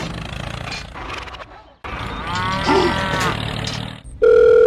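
A rumbling noise cuts off suddenly about two seconds in and is followed by a wavering call. Near the end a loud, steady electronic beep tone begins.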